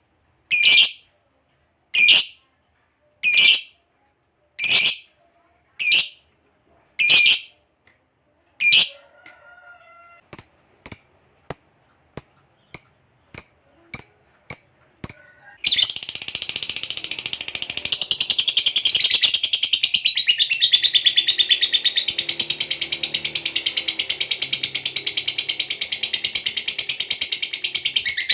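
Lovebird calling: shrill calls about every second and a half, then quicker, shorter chirps about two a second. From about halfway comes one long, unbroken, rapid chatter, the 'ngekek panjang' long trill prized in lovebirds.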